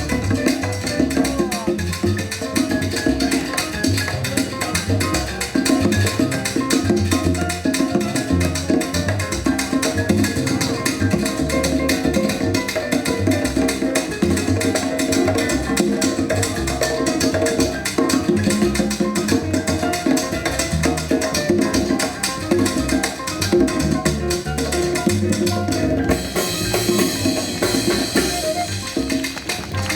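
Live Latin jazz ensemble playing a salsa-style groove, with drum kit and percussion over a pulsing bass line. A bright hissing wash joins in the high end for the last few seconds.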